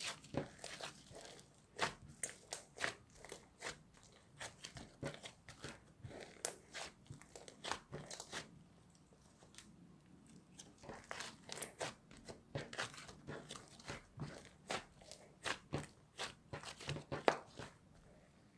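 Slime being squeezed and worked by hand, making irregular crisp clicks and crackling pops in quick clusters, with a short lull about halfway through.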